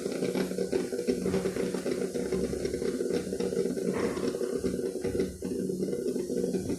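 Morphy Richards drip coffee maker sputtering and hissing as the last water and steam push through its heater, with irregular crackles over a steady low hum; the reservoir has run dry and the machine has just been switched off.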